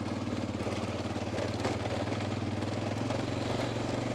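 Honda Dominator's single-cylinder four-stroke engine running steadily under load as the motorcycle climbs a steep dirt track.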